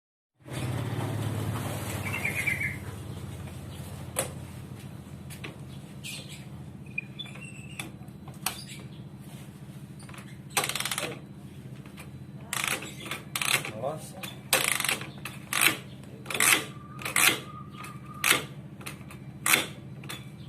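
Honda CBR motorcycle kick-starter being kicked over and over, about once a second in the second half, each stroke slipping through without turning the engine over: a slipping kick-start, which the owner puts down to a clutch slipping from low engine oil. A steady low hum runs underneath.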